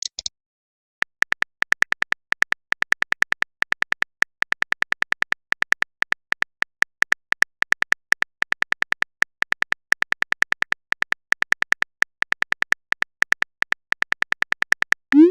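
Phone keyboard typing sound effect: a long, uneven run of short, identical clicks, several a second, as a chat message is typed. Near the end a short rising blip sounds.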